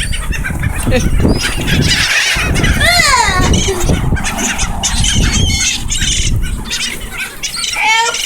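A flock of gulls squawking and calling over one another, with a loud falling call about 3 seconds in, over low wind rumble.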